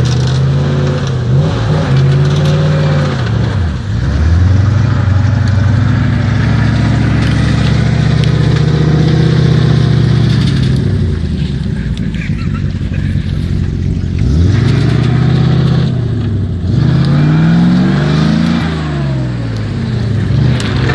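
GAZ-66 truck engine revving hard and unsteadily, the pitch dropping and climbing again several times, around 4 s, 16 s and 19 s in: the engine is being worked against the mud.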